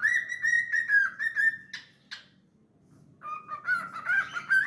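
Cockatiel whistling a song: a quick run of clear, warbling notes, a pause of about a second with a single click, then a second phrase of whistled notes starting about three seconds in.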